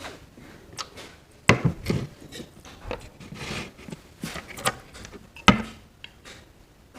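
Tableware being handled at a meal: scattered clicks and knocks with soft rubbing between them, the two sharpest about a second and a half in and near the end.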